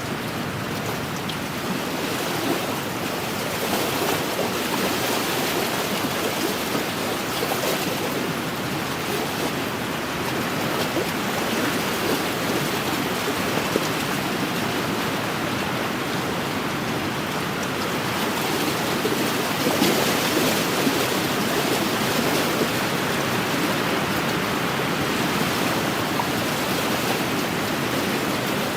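Wind-driven waves lapping steadily against the lakeshore: a continuous rush of water that swells a little now and then.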